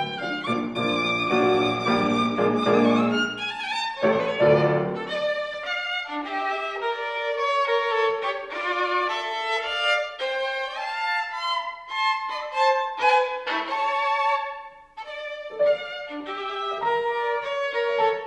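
Solo violin playing a quick-moving melodic line with vibrato, accompanied by piano. The accompaniment is fullest in the first few seconds and then thins out, leaving the violin mostly alone.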